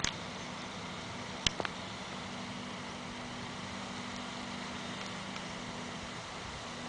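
A steady low mechanical hum over a constant noise bed, with a sharp double click about one and a half seconds in.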